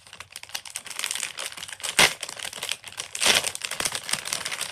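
Plastic crinkling and clicking as fidget toys are handled, with a sharp loud crackle about two seconds in and a louder burst of crinkling a little past three seconds.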